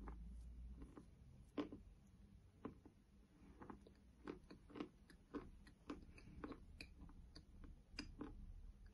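Faint, irregular crunching of a person chewing a bite of eating chalk, roughly one or two crunches a second; the chalk is slightly under-dried.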